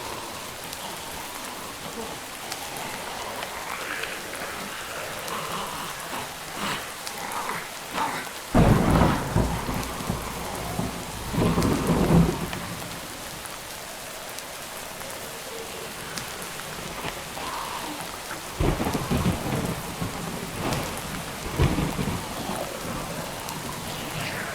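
Steady rain falling, broken by loud low rumbles of thunder: two long ones about a third and halfway in, and two shorter ones near the end.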